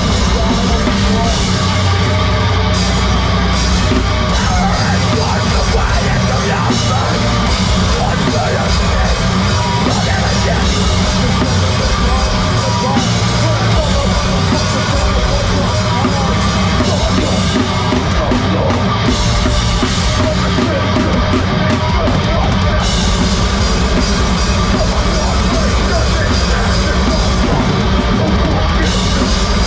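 A heavy rock band playing loud live, with a drum kit and guitars, heard through the venue's PA.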